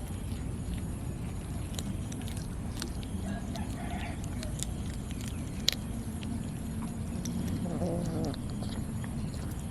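Cats chewing raw fish, with scattered sharp clicks, one louder snap a little before the six-second mark. A short animal call about four seconds in and a longer one near the end, like a hen clucking.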